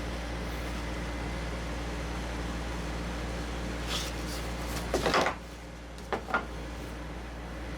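Steady low machine hum with a quick clatter of sharp knocks about five seconds in and two more knocks about a second later.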